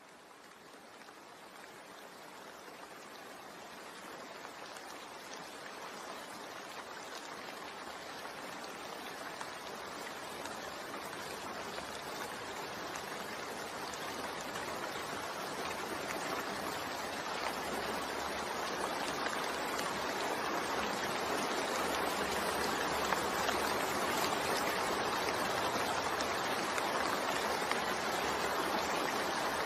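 Steady rainfall, a continuous even hiss that fades in gradually, growing louder over the first twenty seconds or so and then holding steady.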